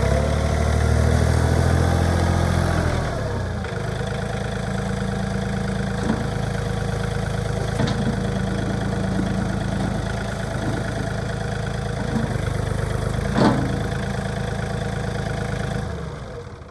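John Deere 3033R compact tractor's diesel engine running faster for about three seconds, then dropping back to a steady idle. There is one sharp click near the end.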